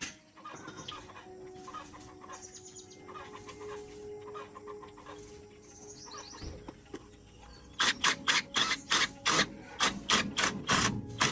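Chickens clucking. About eight seconds in, a fast series of loud sharp knocks starts, about four a second, and runs to the end. These knocks are the loudest sound.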